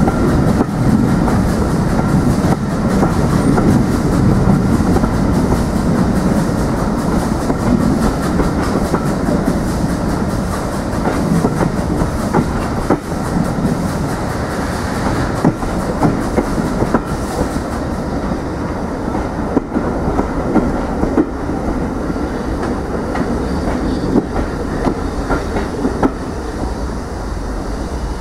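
Train running along the track: a steady rumble with the wheels clicking over the rail joints, easing off slightly towards the end.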